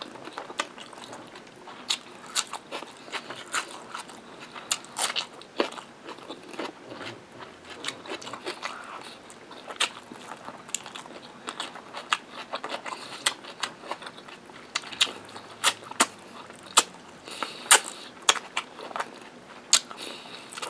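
Close-miked chewing of rice and mutton curry with raw red onion: wet mouth clicks and crunches at an irregular pace.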